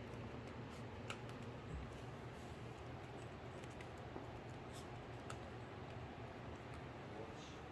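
Faint, scattered small clicks and scratches over a steady room hiss, from a poodle playing with a torn yellow rubber ball.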